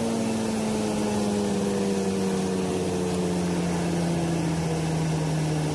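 Forage ultra-fine crusher running, a steady machine hum whose pitch falls slowly and evenly throughout.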